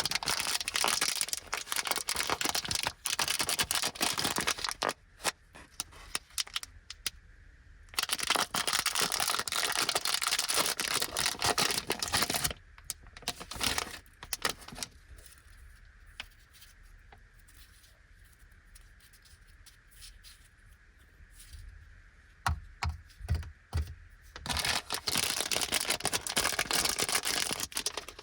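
Plastic bag of Doraemon yogurt marshmallows being crinkled and torn open in three long stretches, with scattered clicks and a few soft knocks in between.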